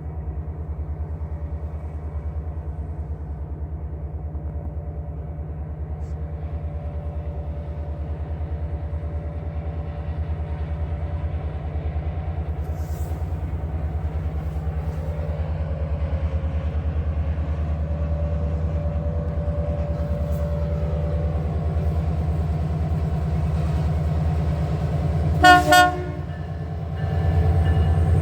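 Train approaching with a steady low diesel rumble that slowly grows louder, and a short two-pulse blast of the locomotive horn near the end.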